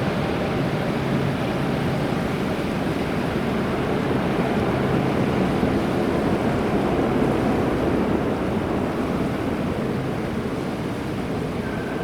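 Airbus A330-300 airliner's jet engines running as it comes in to land: a steady low roar.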